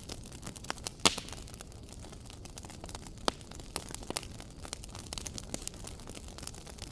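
Wood fire in a fireplace crackling: irregular sharp pops and snaps over a low steady hiss, with one loud pop about a second in.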